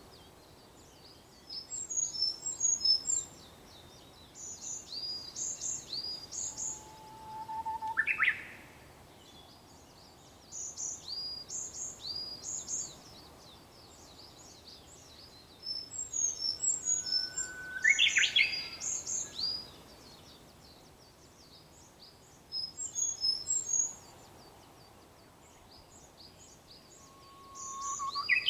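Japanese bush warbler (uguisu) singing its hō-hokekyo song three times, about ten seconds apart: a long plain whistle followed by a quick rising flourish. Between the songs another small bird gives short runs of high, rapid chirps.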